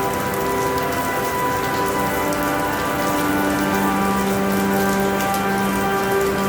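Steady rainfall with fine, close drop patter. Soft sustained musical tones are held underneath, and their notes shift slowly.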